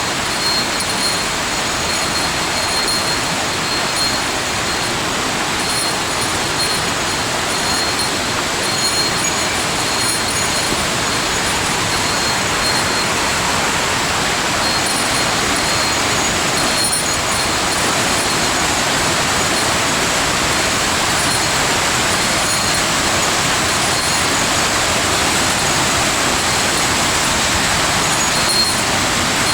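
Rushing water of a mountain stream, a steady unbroken rush with no let-up.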